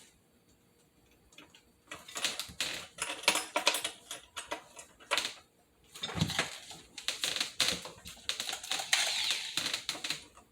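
Hand screwdriver working a screw into a metal blind bracket: rapid clicking and scraping in two bursts, starting about 2 s and 6 s in.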